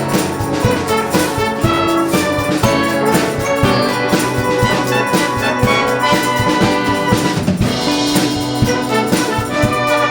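Brass band playing an instrumental passage of a pop song: trumpets and trombones playing held and moving notes over a steady drum beat.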